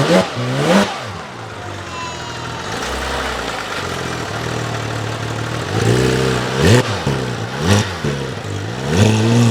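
Exotic sports car engine revved in quick throttle blips near the start and again several times from about six seconds in, settling to a steadier run in between.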